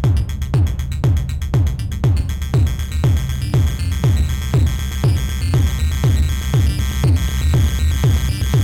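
Electronic synthesizer jam from a Eurorack modular setup: a kick drum on every beat, about two a second, each one dropping in pitch, over a steady synth bass. About three seconds in, high synth notes in a repeating pattern come in more strongly.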